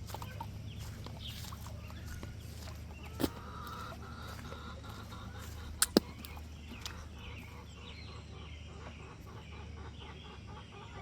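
Young chickens, about two months old, clucking and calling in short repeated notes that become denser near the end. A sharp click about three seconds in and two louder clicks about six seconds in cut through.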